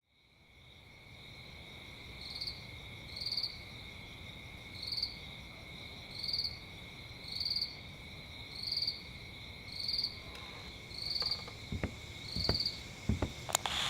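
Insects trilling steadily, with a short chirp repeating about every second and a quarter, fading in at the start. A few sharp knocks near the end.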